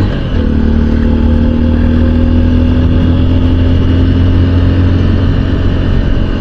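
Honda XR150L's single-cylinder four-stroke engine running at steady revs while the motorcycle is ridden, its pitch holding nearly constant.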